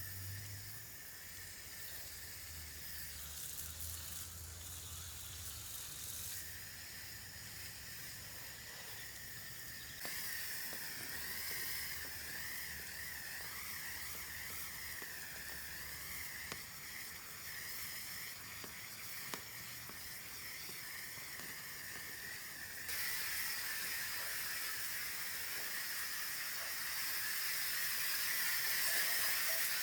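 A steady chorus of insects, crickets or cicadas, shrilling high. The chorus shifts and grows louder abruptly about a third of the way in and again later.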